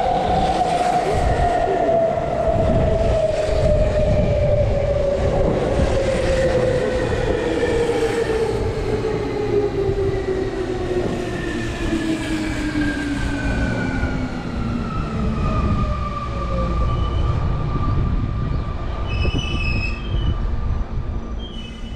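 Electric commuter train pulling into the station and braking, its inverter motor whine sliding steadily down in pitch as it slows, over the rumble of the wheels. Near the end come a few brief high squeaks as it comes to a stop.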